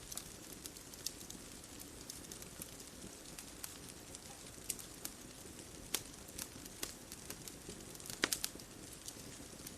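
Wood fire crackling, with irregular snaps and pops over a soft, steady background hiss; a quick cluster of louder pops comes about eight seconds in.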